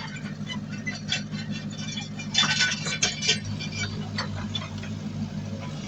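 Diesel engine of heavy earthmoving machinery running steadily, with scattered clicks and clatter over it. A louder burst of rattling comes about two and a half seconds in.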